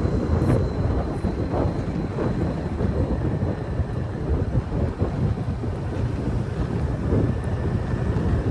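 Riding a motorbike: wind buffeting the microphone over the steady running noise of the bike and its tyres on the road.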